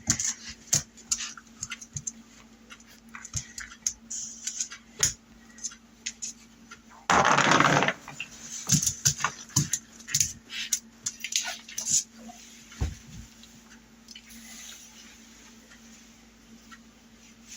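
A puppy moving about and playing: scattered light clicks and taps, with one loud rough noise lasting about a second around seven seconds in. A faint steady hum runs underneath.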